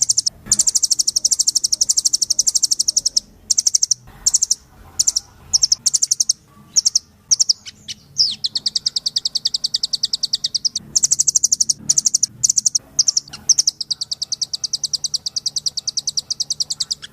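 Rambatan (nuthatch) songbird singing in full voice: fast, high, rattling trills of rapidly repeated notes in long runs, broken by short pauses and a quick downward slur about eight seconds in.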